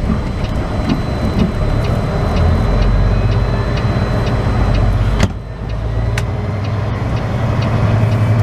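Semi truck's diesel engine running steadily, heard from the cab, with a light ticking about twice a second for the first five seconds. A single sharp knock comes about five seconds in, then the engine hum carries on.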